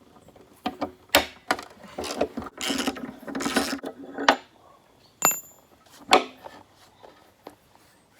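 Plastic knocks, rubbing and scraping as a car's rear bumper impact absorber is worked off its bracket, followed by a short metallic clink with a brief ring about five seconds in and a further knock.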